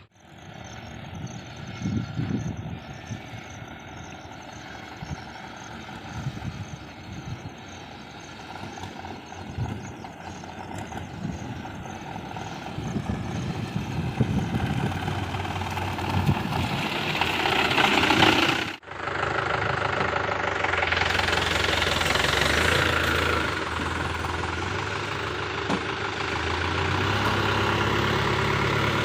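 JCB 3DX backhoe loader's diesel engine running and revving as it works, with irregular low thumps through the first two-thirds. It grows louder about 16 seconds in, breaks off abruptly, then carries on more steadily with its pitch stepping up and down.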